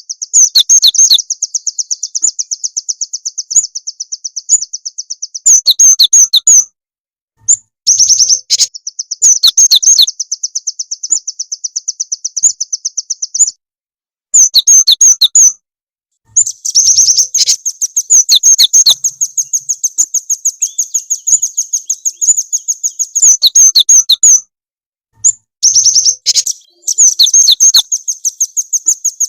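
Recorded songbird lure song of the cinereous tit and nuthatch kind: long runs of rapid, high-pitched repeated chipping notes, loud and close. The runs are broken three times by abrupt silent gaps where the recording is spliced.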